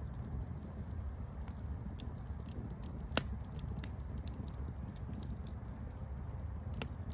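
Campfire burning with a steady low rumble of flames and scattered small crackles, a sharp pop about three seconds in and another near the end.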